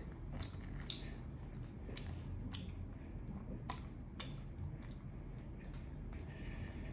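Eating sounds from a person chewing barbecue: irregular wet mouth clicks and smacks, with the odd sharper click or tap, the loudest a little past halfway.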